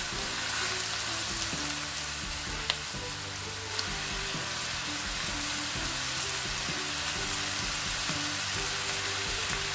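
Beaten egg and diced roasted lamb with vegetables sizzling steadily in a hot stainless steel wok as they are stirred with a silicone spatula; two sharp clicks about three and four seconds in.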